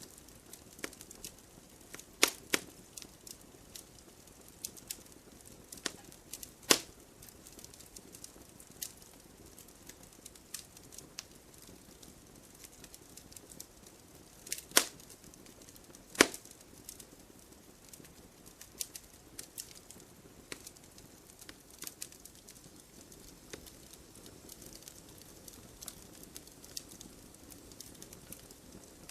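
Wood fire in a fireplace crackling, with irregular sharp pops of burning logs, a few much louder than the rest, over a faint steady hiss.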